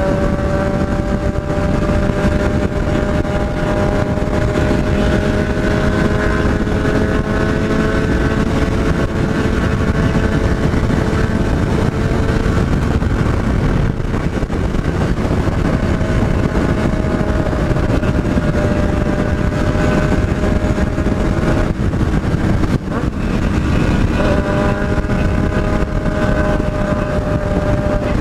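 Yamaha MT-03's parallel-twin engine running hard at high road speed, heard from the rider's seat with wind noise on the microphone. The engine note breaks off briefly about halfway through and again about two-thirds in, then picks up again.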